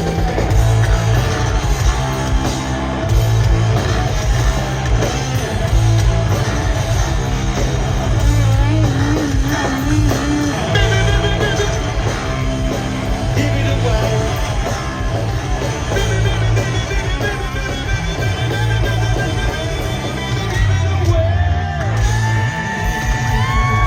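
A live rock band playing loud funk-rock, with a pulsing bass line, drums and vocals. Near the end a sustained guitar note bends up and down.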